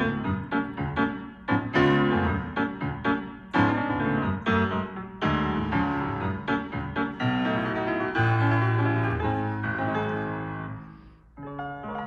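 Solo piano music with quick, lively runs of notes, a held low chord that fades away about eleven seconds in, then new notes starting.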